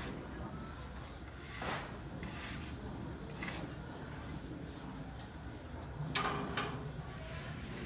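A few separate scraping strokes, a hard tool rubbing against a hard surface, the strongest near the end, over a steady low background rumble.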